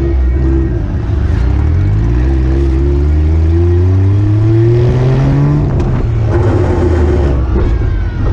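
Daihatsu Mira rollover car's engine heard from on board, accelerating with its pitch climbing steadily for about five seconds. It falls back about six seconds in, then runs on at a steadier pitch.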